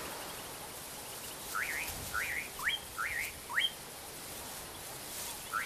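A bird calling: a run of about five short, quick, rising chirps in the middle, over a faint steady hiss of outdoor ambience.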